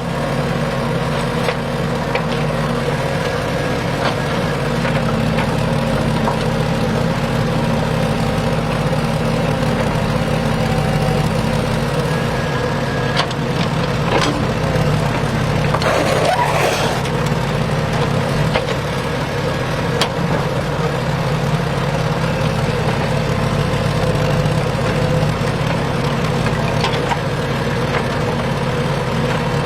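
A motor running steadily with an even, engine-like hum, and a few light clicks over it.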